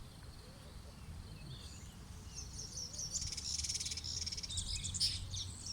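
Small birds chirping and twittering in high, quick notes, building from about two seconds in into a dense, buzzy trill, over a steady low rumble.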